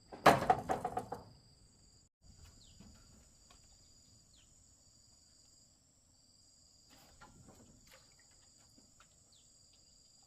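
Steady, high-pitched insect chirring, with a louder brief pitched sound in the first second and faint scattered clicks.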